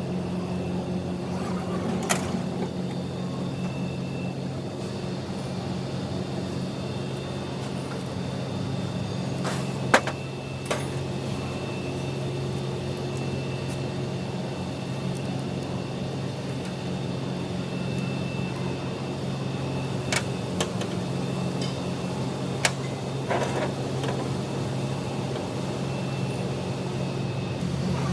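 A motor or engine running steadily with an even hum, broken by a few sharp metallic clicks and knocks, the loudest about ten seconds in.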